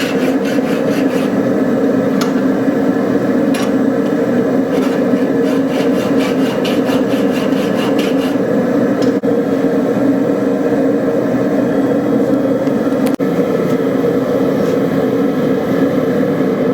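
A hand tool scraping back and forth on a steel railroad spike in rhythmic strokes, about four or five a second, that stop about eight seconds in. Under the strokes a loud, steady drone runs throughout.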